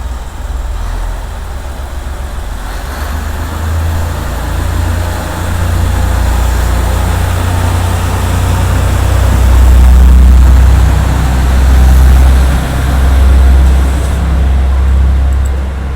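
A heavy road vehicle's engine running with a loud, deep rumble that builds over the first several seconds, then swells and eases several times.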